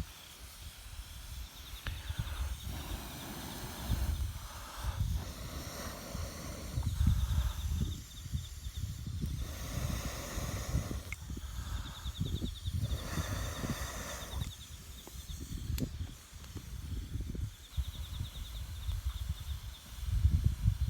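Breath blown through a fire-blowing pipe into a campfire, in repeated rushes of air a second or two long with the fire flaring under each one. A few sharp pops of burning wood come through.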